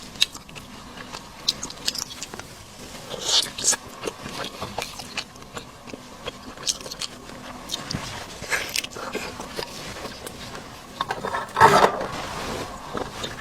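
Close-miked eating: biting and chewing seafood, with short wet crackles and clicks, and a louder burst of them near the end.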